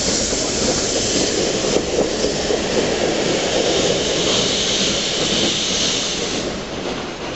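Ok22 steam locomotive and its train running on the rails, a steady rumble with a high hiss over it that cuts off suddenly about six and a half seconds in.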